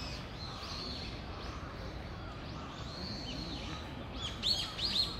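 Small birds chirping in trees with thin, high calls, then a quick run of louder, sharp falling calls near the end, over a steady hum of outdoor background noise.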